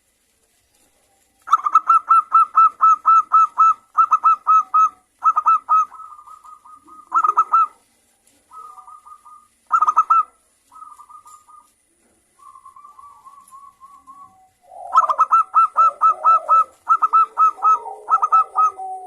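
Zebra doves calling back and forth, each phrase a quick run of staccato cooing notes at about five or six a second. Loud runs alternate with shorter, quieter answers, and the two calls overlap near the end.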